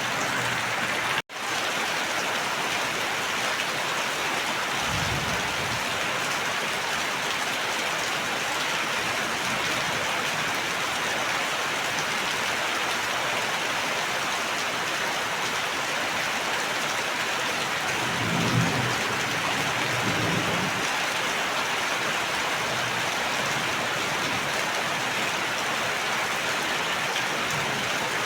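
Steady, even rain pouring down. A few short low rumbles rise under it, once about five seconds in and twice near two-thirds of the way through. The sound cuts out for an instant about a second in.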